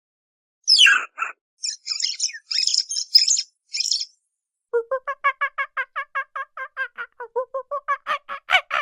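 Bird calls: a falling whistle about a second in and a burst of high chirps, then, after a short gap, a long run of rapidly repeated call notes, about five a second.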